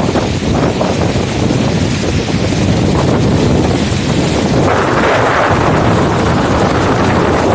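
Wind buffeting the microphone over steady road traffic, with a louder rushing swell about five seconds in.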